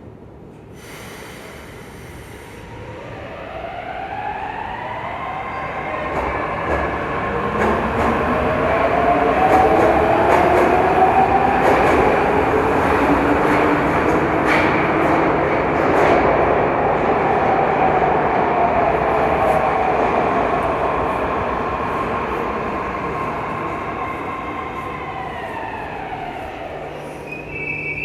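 81-722.1/723.1/724.1 metro train running through the tunnel. Its traction drive whines in several tones that rise in pitch as it accelerates, hold steady at speed, then fall away as it brakes, over wheel and tunnel rumble that swells and fades with speed.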